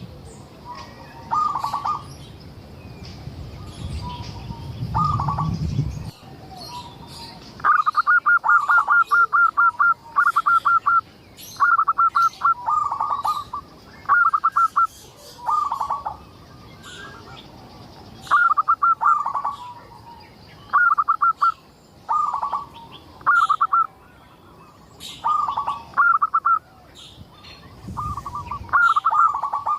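Zebra dove (perkutut) singing: short phrases of quick staccato coos repeated every second or two, with faint high chirps of other small birds behind. A low rumble runs under the first few seconds.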